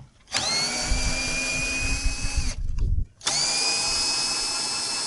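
Electric drill running twice. Each run spins up with a quickly rising whine and settles to a steady pitch. The first run stops after about two seconds, and the second starts about three seconds in and keeps going.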